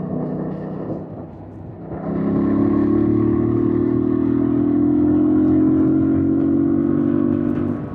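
2025 Yamaha MT-07's parallel-twin engine: softer for about two seconds, then pulling hard under throttle with its pitch climbing slowly for about six seconds, easing off just before the end.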